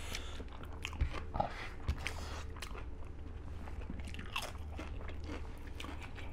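Close-miked chewing and crunching of food, with scattered crisp crunches, over a low steady hum.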